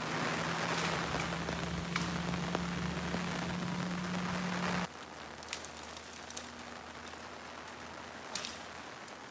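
Heavy rain falling, heard as a steady hiss with a low hum under it. About five seconds in it cuts to a quieter stretch of rain with a few faint ticks.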